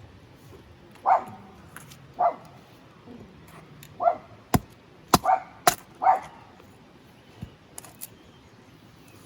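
A dog barking about six times in short single barks over the first six seconds, with a few sharp knocks among the later barks.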